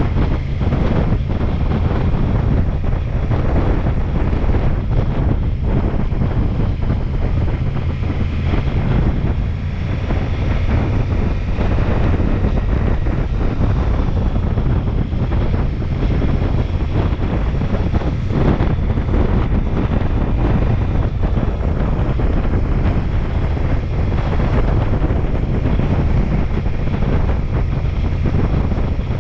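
Heavy wind noise buffeting the microphone while riding a Ducati Multistrada V4S, with the bike's V4 engine running steadily underneath.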